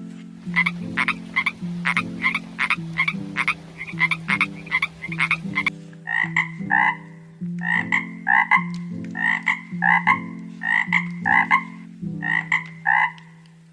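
Frog croaking in quick repeated calls, about two a second, over a low stepping backing melody.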